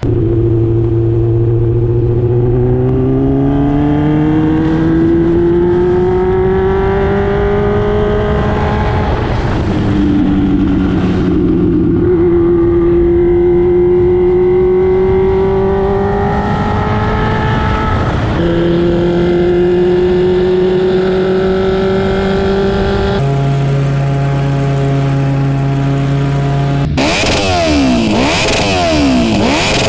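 Motorcycle engine running under load, its pitch rising slowly as it accelerates and easing off, in several spliced segments that change abruptly. Near the end the pitch sweeps up and down repeatedly in crossing glides.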